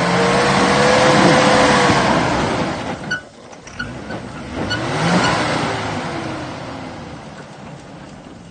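Turbocharged 4x4 engine revving hard under load, then the throttle lifts about three seconds in with a brief turbo flutter, picks up again about five seconds in, and fades away.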